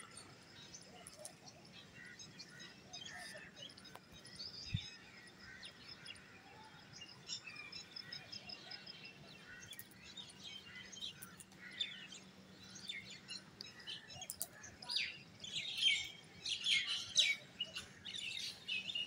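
Small birds chirping in short high calls, sparse at first and busier in the last few seconds, over a faint steady low hum.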